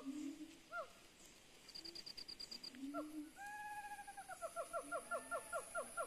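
Forest birds calling: repeated short falling chirps, a quick high trill about two seconds in, then a long note followed by a fast run of falling notes in the second half.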